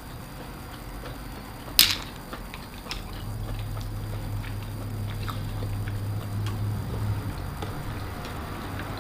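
Eating a seafood meal of clams: one sharp click about two seconds in, then scattered lighter clicks and taps. A low steady hum comes in about three seconds in and carries on beneath them.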